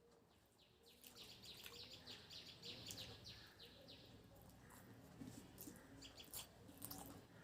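Faint bird chirping: a quick run of short, falling high chirps lasting about three seconds, followed near the end by a few sharp clicks.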